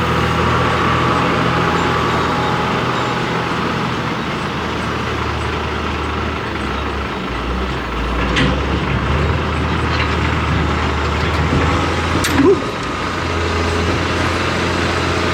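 Engine running steadily at a constant speed, with a few light clicks and a short sharp knock about twelve seconds in.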